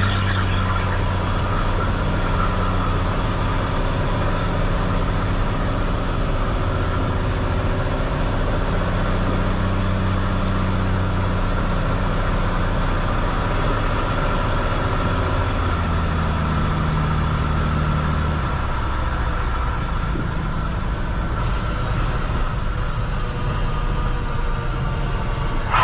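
Cessna 182 Skylane's piston engine and propeller droning steadily through the approach and landing. The pitch shifts a little now and then, dropping lower about two-thirds of the way through.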